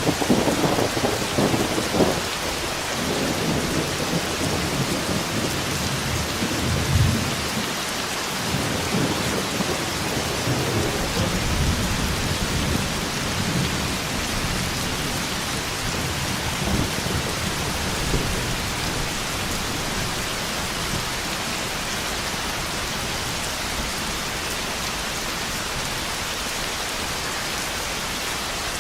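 Heavy rain falling steadily with thunder: a sharp thunderclap and rumble at the start, further low rolls of thunder about 7 and 12 seconds in, then rain alone for the second half.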